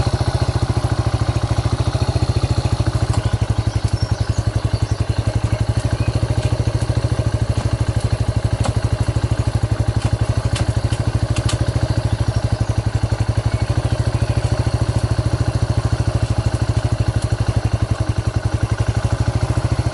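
Suzuki GS125's single-cylinder four-stroke engine idling steadily through an aftermarket Scorpion exhaust, an even, deep pulsing beat with no revving.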